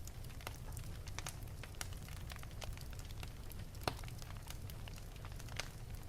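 Wood fire burning in an open fireplace: irregular sharp crackles and pops over a steady low rumble of the flames, with one louder pop about four seconds in.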